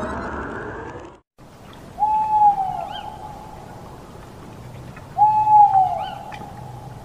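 A short burst of music cuts off about a second in. Then an owl hoots twice, about three seconds apart, each hoot a single held note about a second long.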